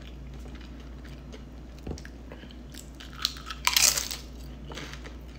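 Close-miked biting and chewing of crunchy chips: scattered crackles, with a burst of loud crunches about three to four seconds in, over a steady low hum.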